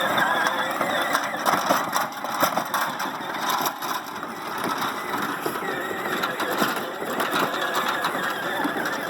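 Child's ride-on toy John Deere Gator driving along, its small electric motor giving a steady whir with a busy rattle from the plastic wheels and trailer.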